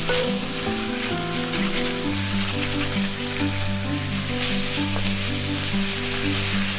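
Food sizzling as it fries, a steady hiss that cuts in at the start, with background music playing.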